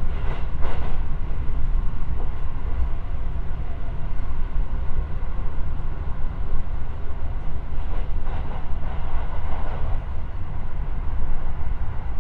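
Running noise of a JR West 223 series electric train heard from inside the passenger car: a steady low rumble of the wheels on the rails at speed, with brief swells of louder noise about half a second in and again around eight to ten seconds in.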